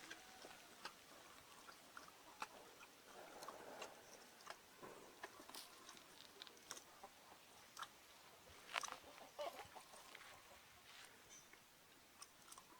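Faint, scattered crunching and clicking of a donkey grazing, tearing and chewing grass, with a small flurry of crunches about nine seconds in.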